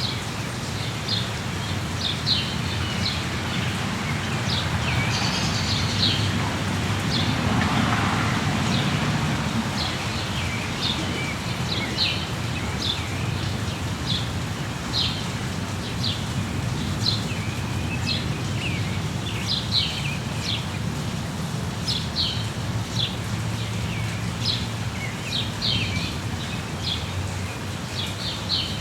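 Rainforest ambience: a steady noisy wash with short, high bird chirps repeating about once or twice a second throughout, and a brief swell in the background noise around a quarter of the way in.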